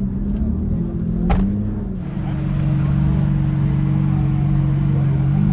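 A car engine idling steadily, with a single sharp click about a second in.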